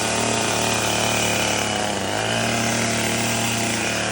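Husqvarna 576 two-stroke chainsaw with a 28-inch bar running at full throttle, cutting through a large wooden post. The engine pitch dips briefly about a second and a half in, then climbs back.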